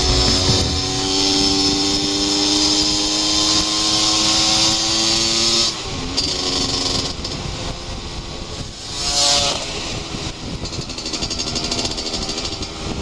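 Two-stroke motorcycle engine running at steady throttle, its pitch slowly creeping up, then falling away about six seconds in. A short rev rises briefly around nine seconds in.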